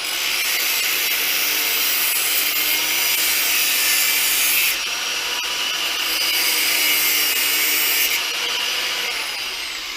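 A handheld power tool motor running at full speed with a high, hissing whine. Its hiss eases for a few seconds in the middle, then the motor winds down near the end.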